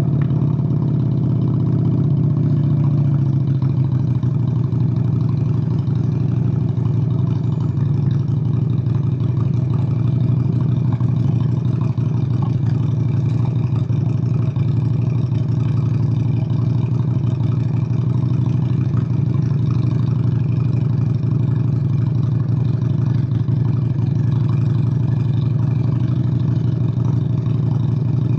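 Honda Steed VLX 600's liquid-cooled V-twin engine running at a steady speed on the move, its revs easing slightly in the first couple of seconds and then holding even.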